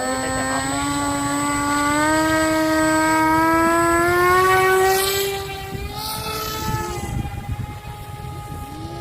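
Homemade battery-powered model airplane's motor and propeller whining, its pitch climbing steadily and growing louder for about five seconds, then falling sharply as it flies past, leaving a steadier, lower drone.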